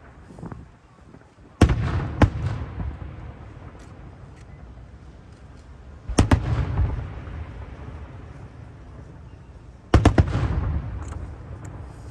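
Aerial firework shells bursting high overhead: a sharp boom about one and a half seconds in with a second crack just after, another about six seconds in, and a double boom about ten seconds in, each followed by a rolling echo that dies away.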